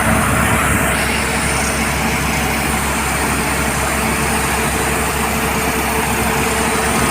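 PG 600-100 pneumatic jackhammer rock drill on a pusher leg running steadily: a fast, continuous hammering under a loud hiss.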